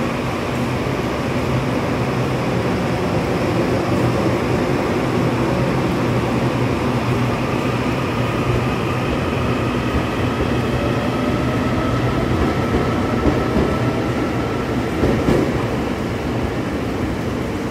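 A vehicle running steadily: a continuous rumble and hum, with a faint whine that slowly rises in pitch past the middle.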